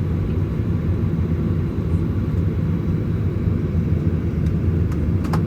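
Steady low cabin rumble of a Boeing 737-900ER on the ground before takeoff, its CFM56-7B turbofans running at low thrust, heard inside the cabin from a window seat near the rear.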